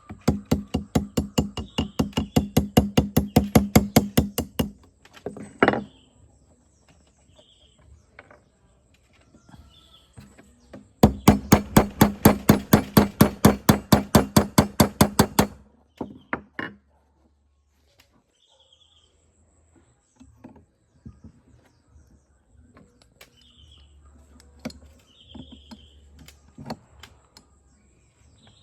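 Two bursts of rapid, even hammering, about nine strikes a second, each lasting four to five seconds, with a few single knocks between. Faint bird chirps sound in the gaps.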